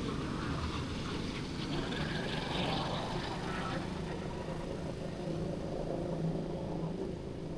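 Street traffic: vehicle engines running, with a steady low engine hum throughout.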